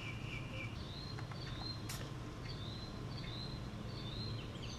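Faint bird chirping: a short call repeated every half second or so, over a low steady hum, with a single sharp click about two seconds in.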